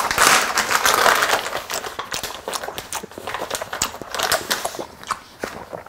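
Wet, crackly chewing of fresh octopus with many small mouth clicks, loudest in the first second and then fading.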